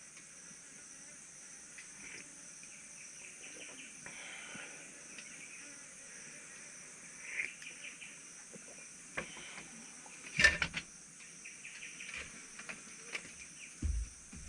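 Steady high-pitched chirring of insects, with faint bird chirps and a few sharp knocks, the loudest about ten seconds in.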